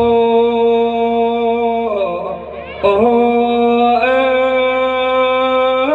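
Music from a show's sound system: a voice holding long, steady sung notes, stepping to a new pitch twice, with a brief drop and a sliding note about two and a half seconds in.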